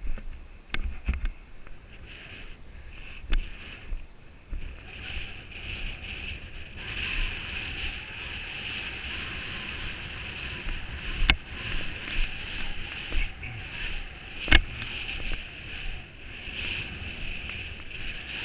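Strong wind rushing and buffeting the microphone, getting louder about seven seconds in, with a few sharp clicks, the loudest near the end.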